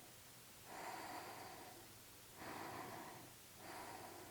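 Faint, slow breathing heard close up, with three drawn breaths while a balancing yoga pose is held.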